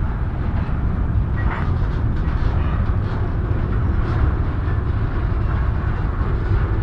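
Freight train rolling into an intermodal yard: a steady low rumble of railcars on the track, with a couple of faint brief squeaks from the wheels.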